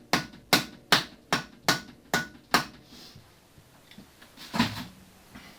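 Quick series of hammer blows on metal, about seven sharp, ringing strikes over the first two and a half seconds, on a nut freshly welded onto a seized engine mounting bolt.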